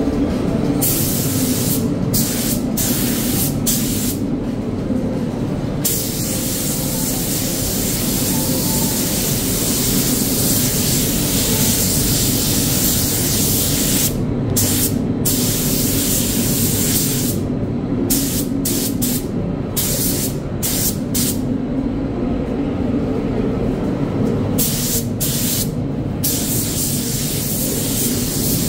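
Compressed-air paint spray gun hissing as the trigger is pulled and released: long spraying passes with short breaks, then several quick on-off bursts in the second half, over a steady low hum.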